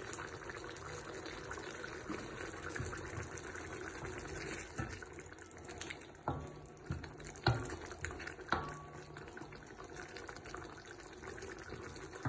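Liquid bubbling and sloshing in a cooking pot. Several sharp metal clinks come in the middle, two of them ringing briefly.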